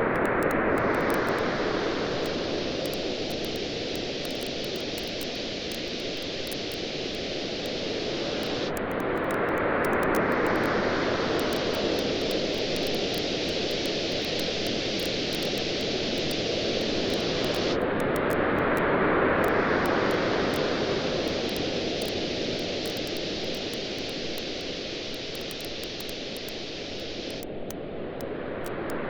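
Sea waves washing in, swelling about every nine seconds over a steady hiss, with a campfire's faint, sparse crackling on top.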